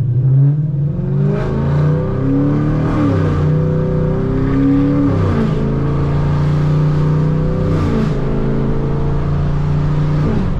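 Straight-piped Chevrolet Camaro V8 accelerating hard through the gears. The exhaust note climbs, then drops sharply at each upshift, four times, about every two and a half seconds.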